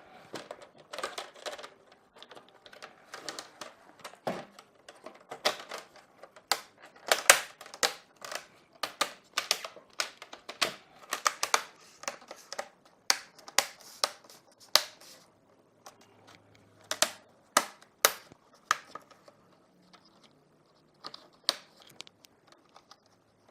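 Plastic clicks and snaps as a laptop's screen bezel is pressed back onto the display lid, its clips catching one after another. The snaps come irregularly, thick and fast in the first half and more spread out later.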